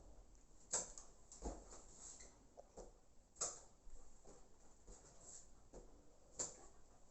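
Faint, scattered knocks and taps, one to three seconds apart, as a German shepherd plays with a ball.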